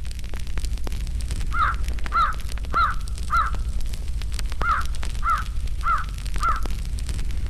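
A crow cawing: two runs of four caws, the first about a second and a half in, the second about four and a half seconds in. Under it a fireplace crackles with scattered pops over a steady low rumble.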